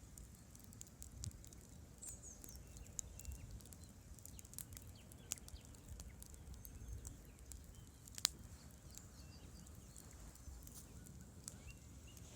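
Wood campfire crackling, with irregular sharp pops and snaps, the loudest about eight seconds in, over a steady low rumble.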